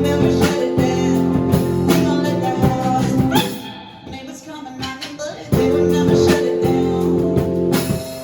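Live band playing a rock song: guitar chords and drum kit with singing. The band drops back to a quieter passage about four seconds in and comes back in loud at about five and a half seconds.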